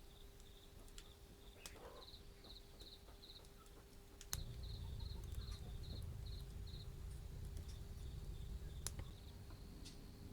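Cricket chirping in short, evenly spaced pulses, about three a second, with a few sharp clicks and a low rumble that starts about four seconds in.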